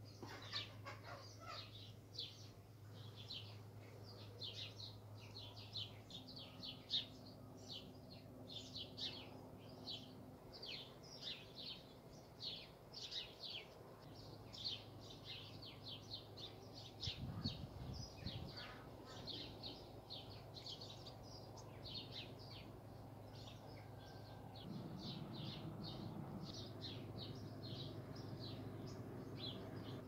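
Small birds chirping, many short, irregular high chirps one after another over a faint steady low hum, with a brief low rumble about halfway through and another a little later.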